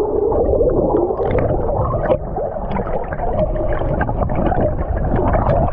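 Fast river current rushing and gurgling, heard muffled and low, with scattered small knocks from the camera being handled.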